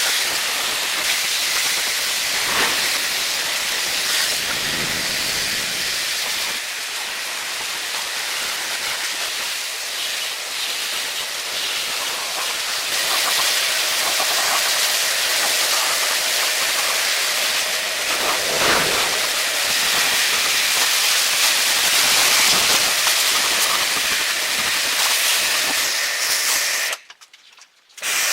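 Steady, loud hiss of a high-pressure jet, as used when blasting or washing rust and grime off the truck. It cuts out for about a second near the end.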